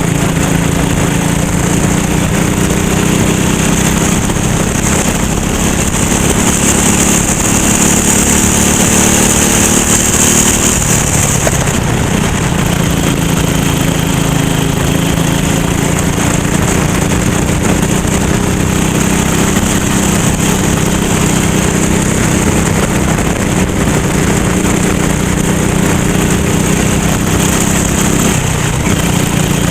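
Racing kart engine running hard and steady, its note dropping briefly and picking up again about eleven seconds in and once more near the end.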